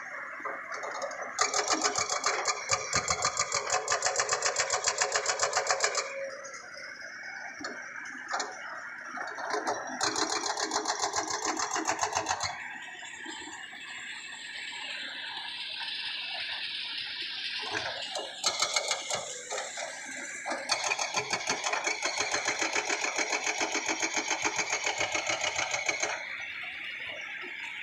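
Excavator-mounted hydraulic rock breaker hammering rock in rapid, evenly spaced blows, in three spells of several seconds each. Between them the CAT excavator's engine and hydraulics run on, with a rising whine in the middle.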